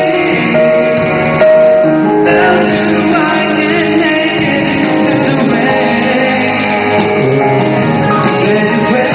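Live concert performance of a pop ballad: a man singing over the backing music. The recording is dull and muffled, with nothing above the middle treble.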